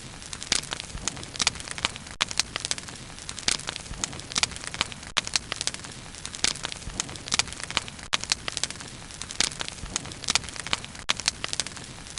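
Wood bonfire burning, with frequent sharp crackles and pops from the burning wood over a steady low rush of flame.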